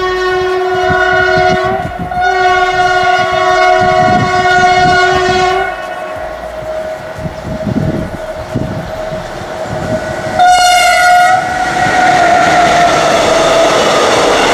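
Pesa Gama locomotive's multi-tone horn sounding two long blasts, the second about three seconds long. The rhythmic clatter of wheels over the rail joints follows as the train passes. A shorter horn blast comes about ten seconds in.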